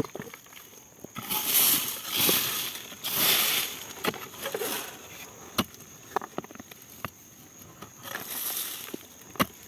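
Soil and dry potato plants crunching and rustling as potatoes are dug up by hand, in a few short bursts, with several sharp knocks in between.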